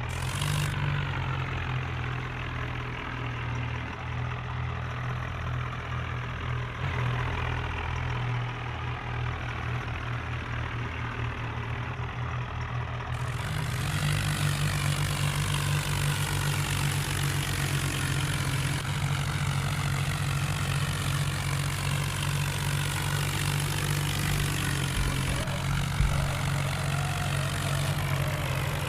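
Tractor engine running steadily, stepping up louder and fuller about halfway through.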